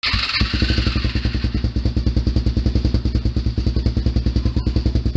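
2006 Kawasaki KFX400's single-cylinder four-stroke engine idling through an HMF slip-on exhaust on a cold start at about 30 degrees, a loud, steady, pulsing exhaust note.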